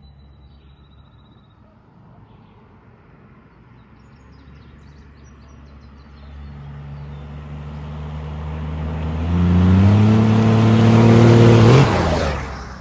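Diesel pickup truck accelerating toward and past the microphone in a flyby: the engine and exhaust note builds over several seconds, rising slightly in pitch as it gets loud, then drops away suddenly as the truck passes, near the end.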